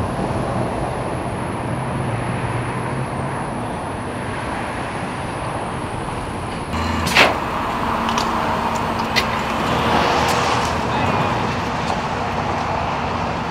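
Steady road traffic noise on a freeway, with a sharp knock about seven seconds in and a smaller one about two seconds later.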